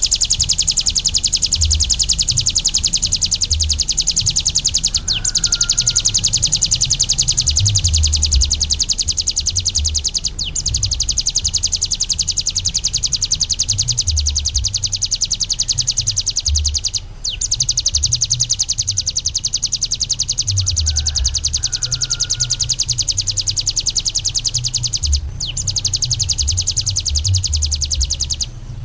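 Ciblek gunung songbird singing a long, very fast high-pitched trill of rapidly repeated notes, broken by brief pauses every five or six seconds.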